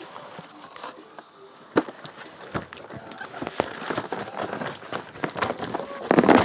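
Fireworks boxes being handled and pulled down from a store shelf: scattered knocks, bumps and rustling of cardboard, loudest in a clatter near the end.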